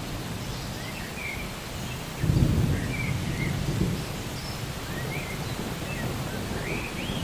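Steady rain with a low rumble of thunder swelling about two seconds in, and a bird chirping now and then over it.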